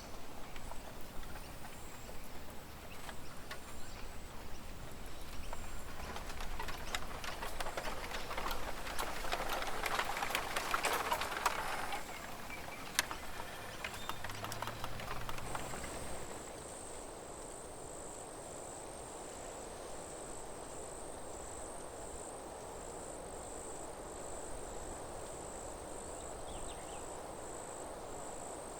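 Forest ambience. A rustling, crackling noise over a low rumble swells for the first half, then gives way to a steady, fast-pulsing high trill of crickets over a soft background hiss.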